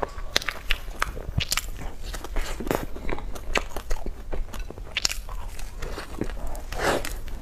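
Close-up eating of cream puffs: biting into the pastry and chewing, with soft crunches and irregular wet mouth clicks.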